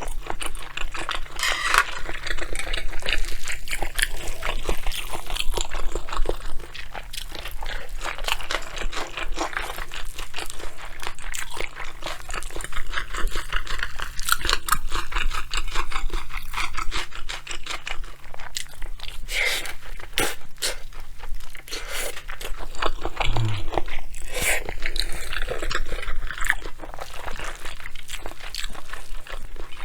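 Close-miked eating: steady chewing and crunching of mouthfuls of bibimbap, with wet smacks and clicks, over a faint steady low hum.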